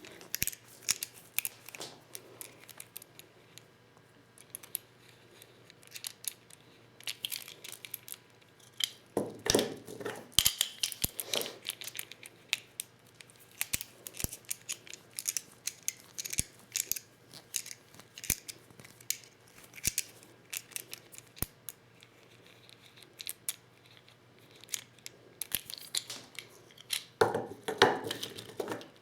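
Hand reloading of 12-gauge shotgun shells with a Lee Loader: a quick, irregular run of small clicks, scrapes and rattles as tools and shells are handled, with louder clattering bursts about nine to eleven seconds in and again near the end.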